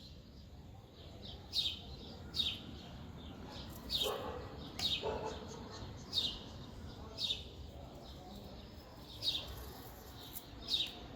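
A bird chirping repeatedly: short, high notes that fall in pitch, roughly one a second.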